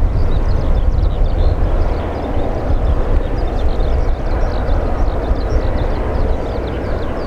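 Boeing 737-800's CFM56 jet engines at takeoff power: a steady, loud rumble with a rushing hiss over it.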